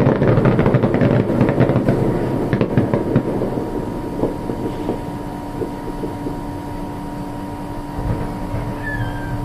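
Fireworks crackling: a dense run of rapid pops and sizzles that thins out to scattered crackles after about three or four seconds.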